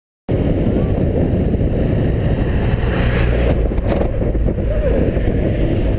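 Wind rushing over a motorcycle-mounted camera's microphone while riding, over the low running of the Suzuki Inazuma GW250's parallel-twin engine. It cuts in suddenly just after the start and stays loud and steady.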